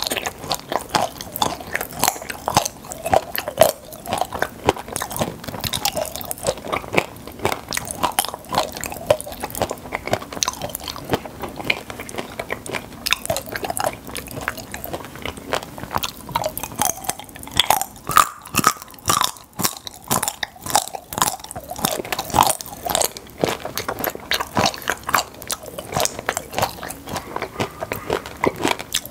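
Close-miked chewing and crunching of popping-candy chocolates, with many quick, irregular clicks and crackles throughout.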